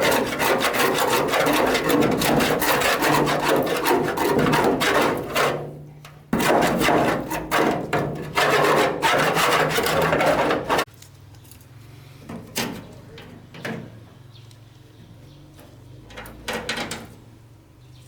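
Loud rasping, scraping strokes of a hand tool worked rapidly against a workpiece, stopping briefly about six seconds in, resuming, then cutting off about eleven seconds in. A few faint knocks follow.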